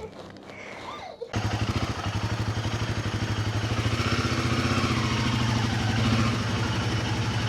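Motorcycle engine idling: a steady, rapid pulsing beat that cuts in abruptly about a second in.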